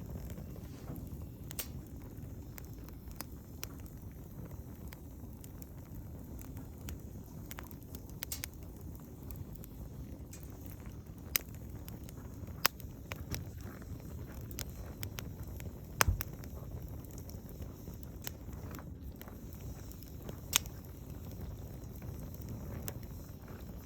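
Wood campfire crackling in a Snow Peak fire pit: scattered sharp pops and snaps, the loudest about 16 seconds in, over a steady low rumble.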